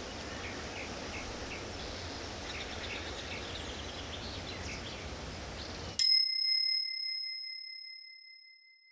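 Recorded forest ambience of steady hiss with small birds chirping in short repeated calls; about six seconds in it cuts off abruptly and a single bell-like timer chime rings once and fades away over about three seconds, marking the end of a one-minute yoga interval.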